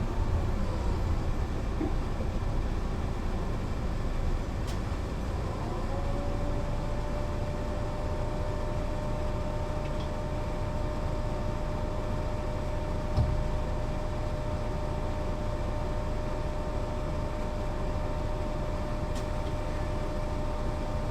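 Mercedes-Benz O 405 NÜ low-floor bus running, with steady low engine and road rumble. A whine falls in pitch at the start, then about six seconds in a whine rises and holds at a steady pitch. There is a single brief knock about 13 seconds in.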